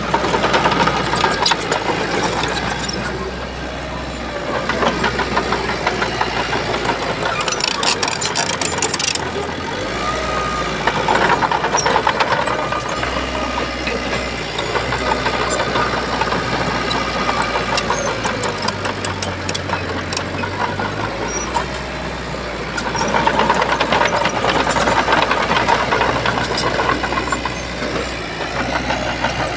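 Shantui bulldozer's diesel engine running under load, swelling louder and easing off several times as it works, with scattered clicks and rattles.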